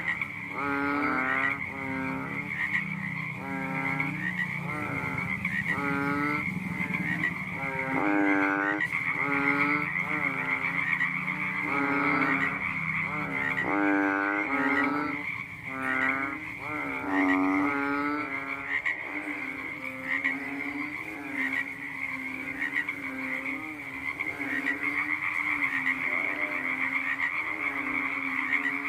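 A frog croaking over and over, about one call a second, each call a short pitched croak; the calls grow weaker in the second half. A steady high-pitched trill or buzz of other night creatures runs behind it.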